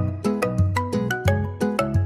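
A polyphonic mobile phone ringtone playing a lively melody of struck, marimba-like notes, about four a second, over a repeating bass line.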